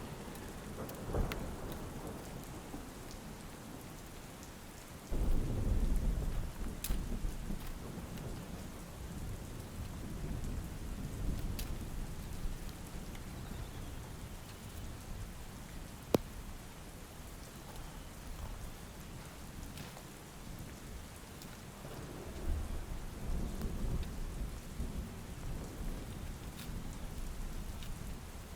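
Steady rain falling, with thunder rumbling over it: a sudden loud thunderclap about five seconds in that rolls on for a few seconds, and another long rumble near the end. A single sharp click sounds about halfway through.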